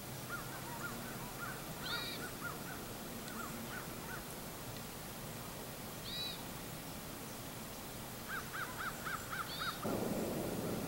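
Birds calling: a high, arched call repeats every few seconds, with quick runs of about six short, lower notes between, and a burst of noise near the end.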